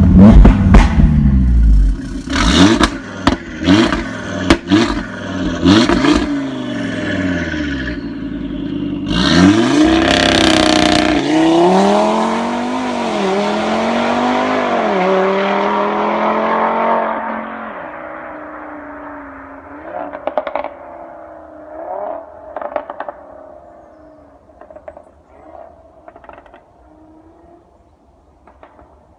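Audi RS3 8V's 2.5-litre five-cylinder with decat downpipe and sport exhaust revving hard, with sharp exhaust pops and crackles in the first few seconds. It then accelerates loudly, the engine note rising and falling, and fades into the distance with faint pops near the end.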